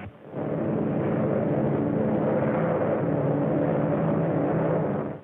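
Propeller airplane engine running with a steady drone, starting abruptly and cutting off sharply near the end.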